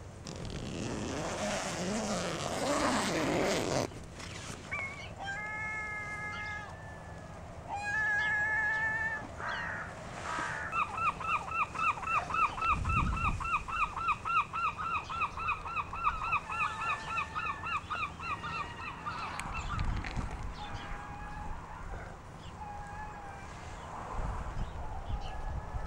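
Tent fabric rustling loudly for the first few seconds as the door is opened. Then birds call: a few short honking calls, then a long run of rapid repeated calls, about four a second, lasting around eight seconds. A few low rumbles of wind on the microphone.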